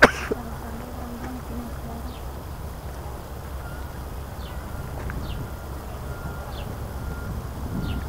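Birds chirping outdoors: short, high, falling chirps that repeat every second or so over a steady low rumble on the microphone. A brief sharp noise sounds right at the start.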